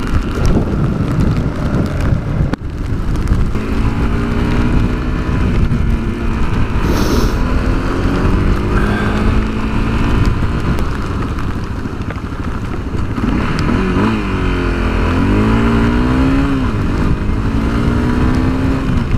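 Honda CRF250L's single-cylinder four-stroke engine running on the move, its pitch rising and falling with the throttle several times in the second half. Heavy wind rumble on the microphone runs underneath.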